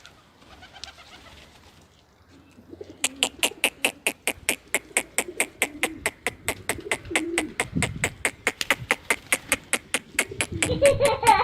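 Pigeons cooing, with a fast, even run of sharp clicks, about five a second, starting about three seconds in and continuing to the end.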